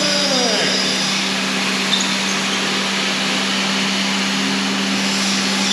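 Shop vacuum running steadily: a constant rush of air over an unchanging low motor hum.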